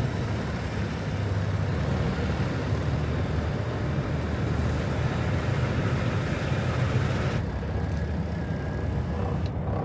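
Semi truck's diesel engine running steadily with a low rumble as the truck moves off, under a broad rushing hiss that falls away about seven seconds in.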